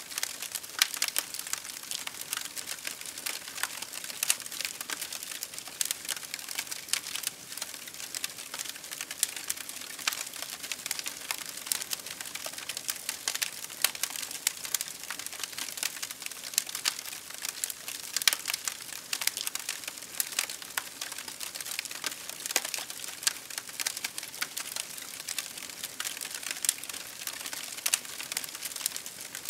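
Campfire crackling and popping: a dense, unbroken stream of small sharp snaps, with an occasional louder pop standing out.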